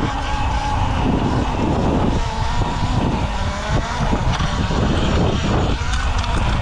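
Talaria electric dirt bike being ridden: a motor whine that wavers up and down in pitch with the throttle, over heavy wind rumble on the microphone.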